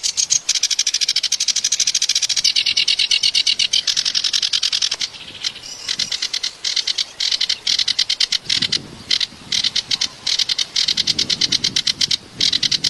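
Kerak basi (reed warbler) singing a rapid, harsh chattering song of fast repeated notes, broken by short pauses in the second half.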